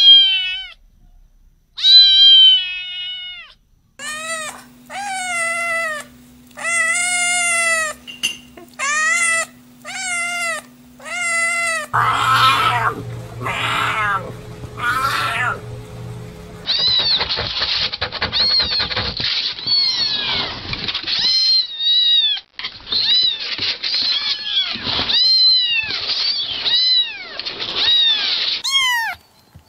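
Cats and kittens meowing in a series of short clips. First a kitten gives two meows and then a run of about six clear, evenly spaced meows. A cougar makes three rougher calls in the middle, and then kittens keep up a dense stream of overlapping meows.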